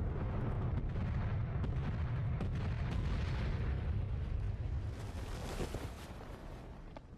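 War-film battle sound: a heavy, continuous low rumble with many sharp gunfire-like cracks, swelling once more about five seconds in, then dying away near the end.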